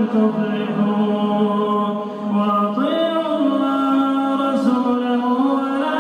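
A man's voice chanting Quran recitation in melodic tajweed style. He holds long drawn-out notes that step up and down in pitch, with a short dip about two seconds in.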